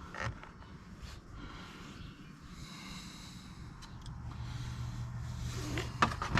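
Faint workbench handling noises: soft rustling and breath-like hiss, then a few sharp clicks of small parts and hose being handled near the end, over a low steady hum.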